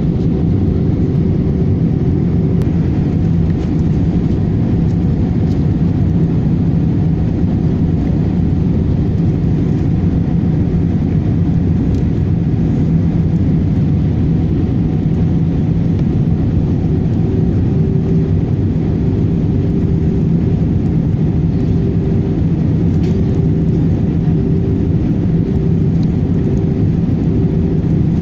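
Airbus A318 airliner in flight, a steady, unbroken drone of jet engines and rushing air with a low hum running through it.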